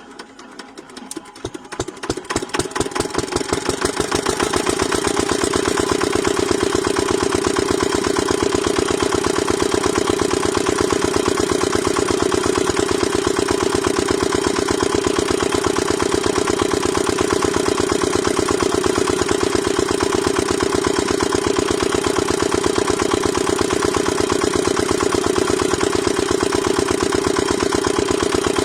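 Small engine of a miniature water-pump model starting up and picking up speed over the first few seconds. It then runs steadily with a fast, even chugging beat.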